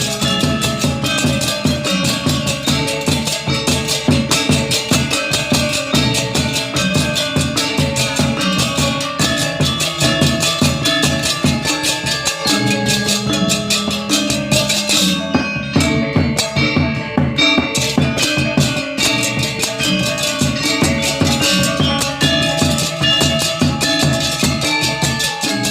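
Balinese gong kebyar gamelan ensemble playing: rapid, dense strikes on tuned bronze metallophones with drums. About halfway through, a low ringing note sets in beneath the fast figuration.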